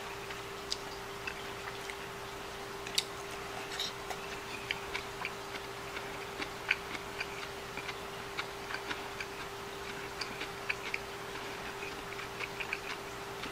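Quiet chewing of a mouthful of stir-fried vegetables, with scattered small mouth clicks at uneven intervals over a steady low hum.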